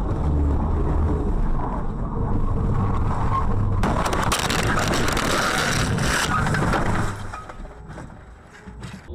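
Car on the road: a steady low rumble of engine and road noise, with a loud hiss that comes in about four seconds in, lasts about three seconds and then drops away.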